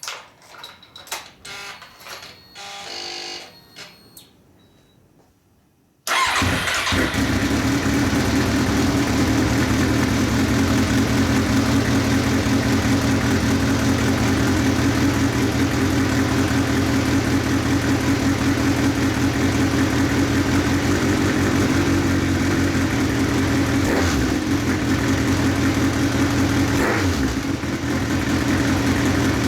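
Kawasaki Z1000 inline-four motorcycle engine, breathing through a Nojima Fasarm full-titanium exhaust, starts suddenly about six seconds in and settles into a steady idle, with two brief throttle blips near the end. A few clicks and knocks come before the start.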